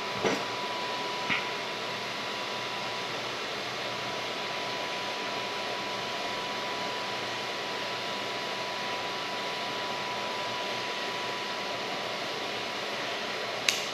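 Steady fan-like hiss with a faint steady high tone, and a few small clicks near the start and again near the end as a knife works at plastic supports on a 3D-printed part.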